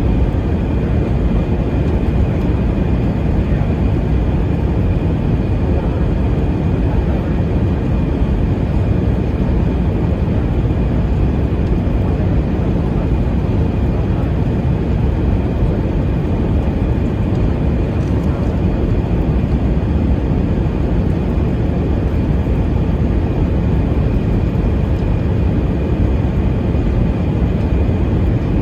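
Steady cabin noise inside an Airbus A320-232 in flight: a constant rush of airflow and engine hum, with a faint steady high whine.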